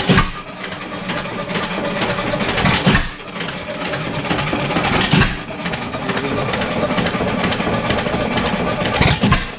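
7 hp Stickney hit-and-miss engine running under its governor: four sharp firing strokes a few seconds apart, coasting between them.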